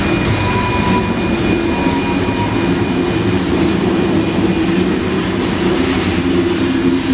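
Union Pacific freight train's covered hopper and tank cars rolling past: a loud, steady rumble and clatter of steel wheels on rail, with a faint steady high tone over it.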